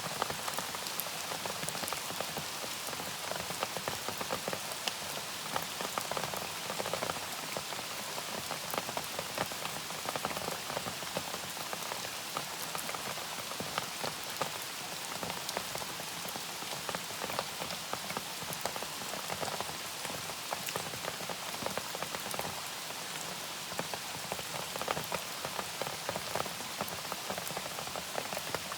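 Gentle, steady rain falling, with many small drops striking a surface.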